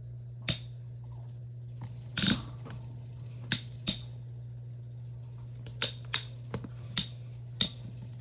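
Sharp plastic clicks and knocks, about nine at irregular intervals with a small cluster about two seconds in, from a white Pelonis table fan being handled and turned around. A steady low hum runs underneath.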